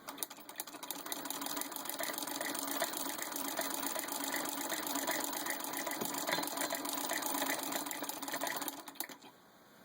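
Hand-cranked Singer 66-4 sewing machine driving a Singer 121021 pinking attachment, which is cutting a zigzag edge into thin leather. It makes a rapid, even clatter of strokes that stops abruptly about nine seconds in.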